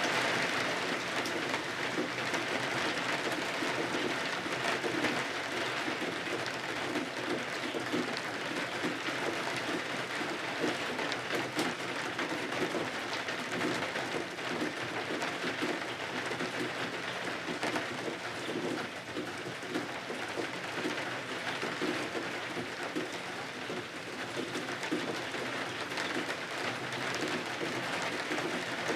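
Steady rain falling against windows, an even hiss with many small ticks of individual drops.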